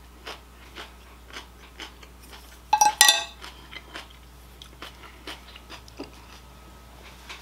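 Close-miked chewing with the mouth closed: soft, wet clicks about twice a second. About three seconds in, a brief, louder clatter as a wooden spoon and fork are set down on a ceramic plate.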